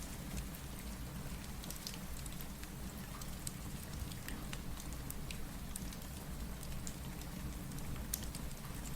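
Steady rain mixed with a crackling wood fire, with many scattered sharp pops and ticks over a deep, even rain noise.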